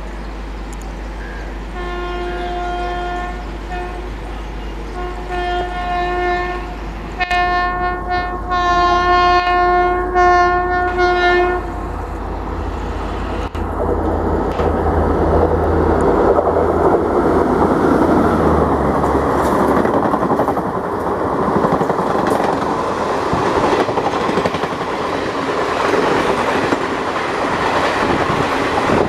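WAP-5 electric locomotive sounding its horn in a series of long blasts over about ten seconds as it approaches. Then the rush and wheel clatter of the locomotive and its Garib Rath Express coaches passing close by at speed.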